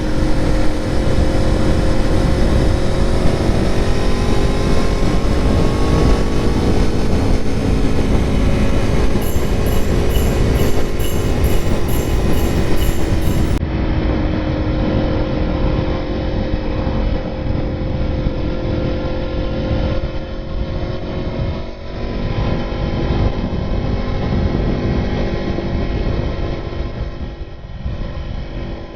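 Aprilia Tuono motorcycle engine running under way, its pitch rising and falling as the throttle opens and closes, over heavy wind rush on the microphone.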